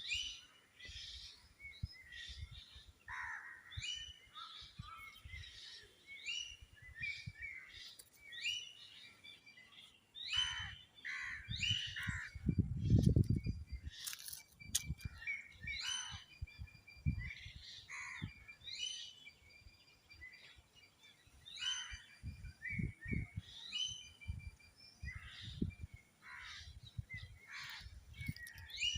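Birds chirping and calling over and over in short, rapid phrases, with scattered dull low thuds, the loudest about halfway through.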